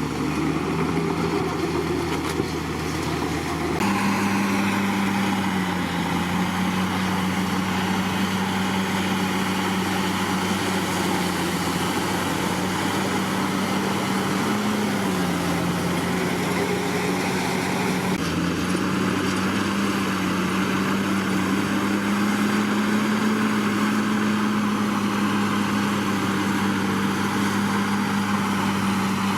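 Komatsu D61PX bulldozer's diesel engine running steadily, its note dipping briefly and recovering a few times. The sound changes abruptly about four seconds in and again about eighteen seconds in.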